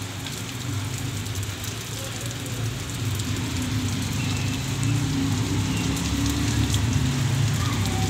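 Heavy rain falling, a steady hiss with scattered ticks of drops striking. A low rumble underneath grows louder over the second half.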